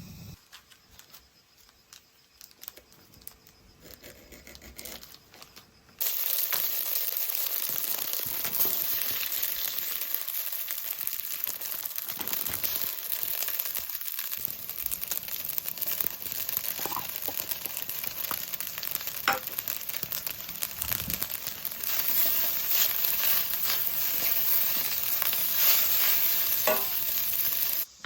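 Food frying, with a dense sizzling and crackling that starts suddenly about six seconds in, after a few faint clicks, and cuts off abruptly near the end.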